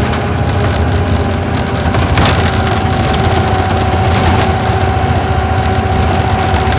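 Isuzu Gala coach's V-type diesel engine running at a steady pace, heard inside the passenger cabin with road noise and a held whine. A few short knocks or rattles, the clearest about two seconds in.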